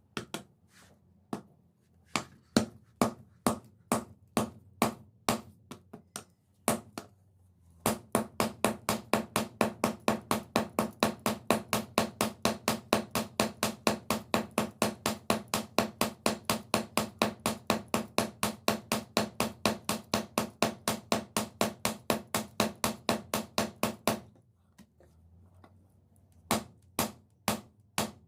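Hammer striking steel on an anvil while forging a knife blade: a few scattered blows, then a long, even run of about four blows a second, then a few more blows near the end.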